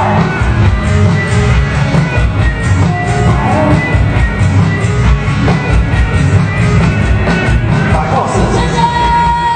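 Live band playing loud music with a steady beat.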